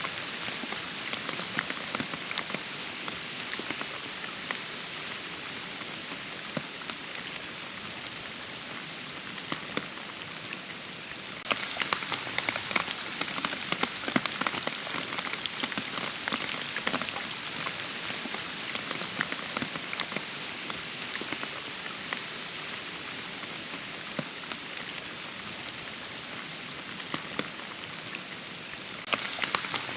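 Steady rain falling, with many individual drops clicking sharply close by. The rain gets suddenly louder about a third of the way in, and again near the end.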